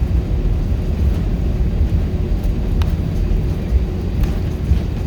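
Airbus A319 cabin noise heard from a forward seat: a steady low rumble of engines and airflow with no distinct events.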